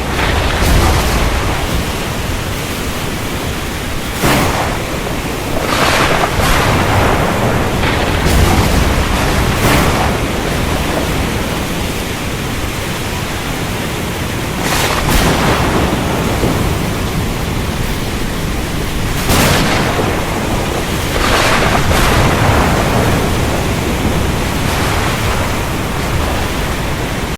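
Thunderstorm: a steady hiss of heavy rain with thunder rumbling, swelling louder every few seconds.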